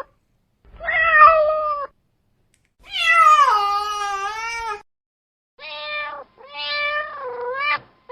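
Domestic cat meowing four times: a short meow, a long drawn-out meow that falls in pitch, then two shorter meows close together.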